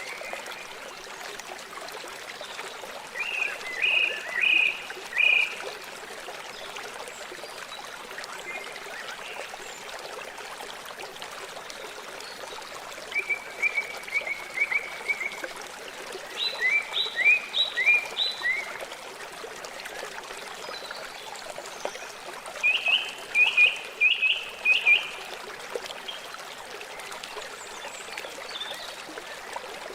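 River water flowing steadily, with four short series of quick repeated chirps several seconds apart standing out above the water.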